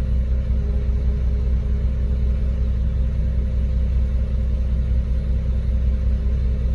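Concrete mixer truck's diesel engine running steadily during a pour, a deep, even sound with a faint steady hum above it.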